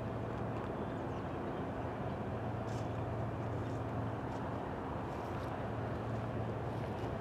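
Steady low rumble of a freight train, with a constant engine hum and a few faint light clicks.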